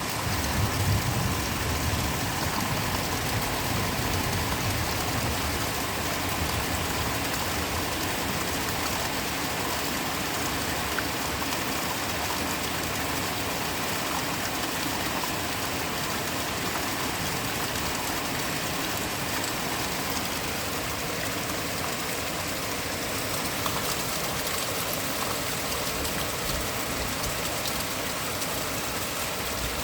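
Steady rain falling in a garden, an even hiss of drops with no let-up.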